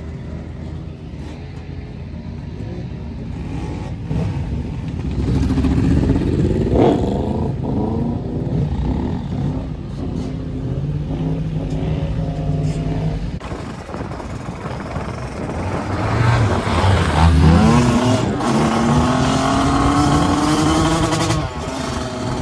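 Motorbike and quad engines revving and passing, with rising engine pitch as they accelerate, loudest about a quarter of the way in and again in the last third.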